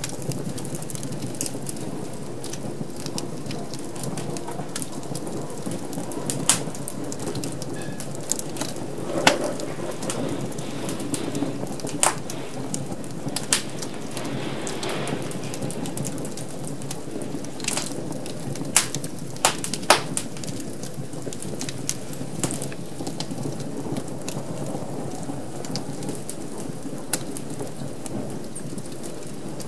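Wood fire crackling in a fireplace: a steady low rush of burning with sharp pops and snaps at irregular intervals, a handful of them louder than the rest.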